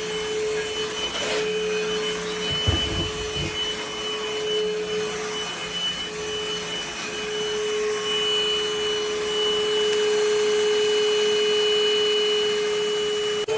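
SVHT V15 cordless stick vacuum running with a steady high motor whine over airflow hiss, with a few low knocks about three seconds in; it runs a little louder and steadier in the second half.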